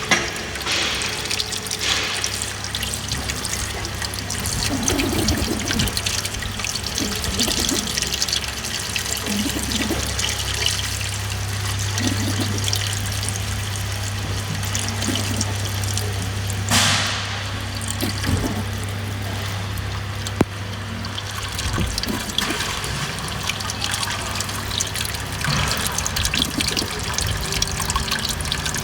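Water trickling and pouring over a steady low hum from a running engine, with a brief louder rush of liquid about seventeen seconds in.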